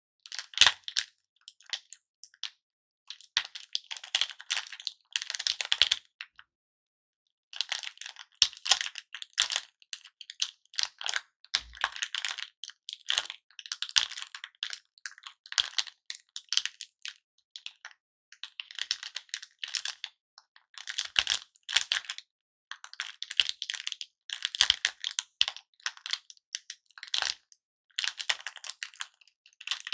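Cellophane lollipop wrappers being crinkled close to the microphone: bursts of sharp crackling a second or two long, with short pauses between them and a longer pause about six seconds in.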